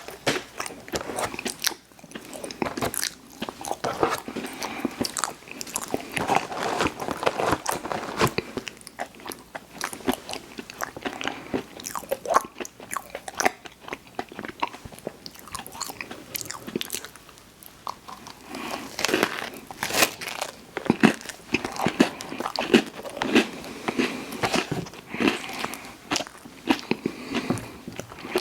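A person chewing and biting food close to the microphone, with many small irregular mouth clicks. It eases off briefly about two-thirds of the way through, then picks up again.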